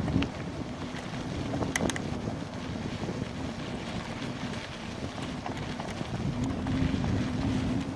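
Wind buffeting the camera microphone on a bicycle ridden into a headwind, with a few sharp clicks and rattles from the bike, one right at the start and another about two seconds in.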